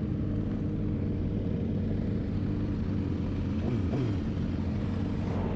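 An engine running steadily at idle, with a short drop in pitch about three and a half seconds in.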